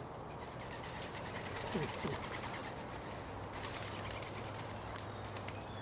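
Racing homer pigeons cooing softly, one short gliding coo about two seconds in over a steady background hiss.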